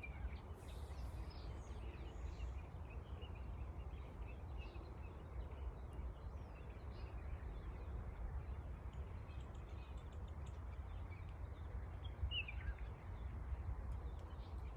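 Outdoor ambience: a steady low rumble with scattered faint bird chirps, and one clearer, falling bird call about twelve seconds in.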